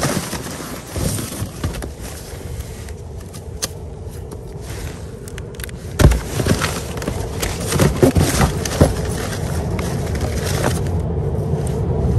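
Rummaging through trash: rustling and knocking of items being moved about, with a loud knock about six seconds in and several more around eight seconds. A steady low vehicle rumble underneath grows louder toward the end.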